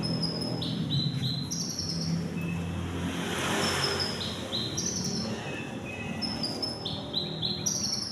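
A songbird singing in runs of short, high, quickly repeated chirps. Underneath is a steady low rumble that swells with a passing whoosh about halfway through.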